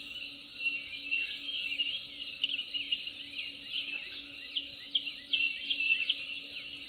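Nature ambience: many birds chirping in short, quick calls, some sliding down in pitch, over a steady high insect drone.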